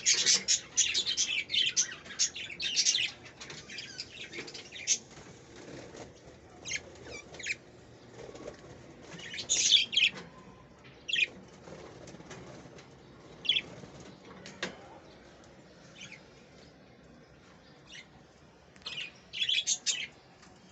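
Green parrot's wings flapping in bursts: a dense flurry over the first three seconds, then short scattered flutters with longer pauses between them.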